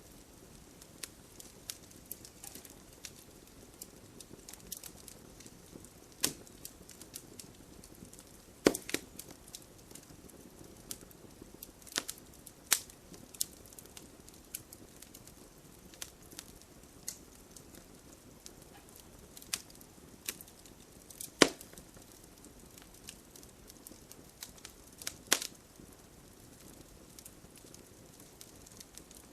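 Campfire crackling: scattered sharp pops and snaps from the burning wood over a soft, steady rustle of flame, with a handful of louder pops spread through.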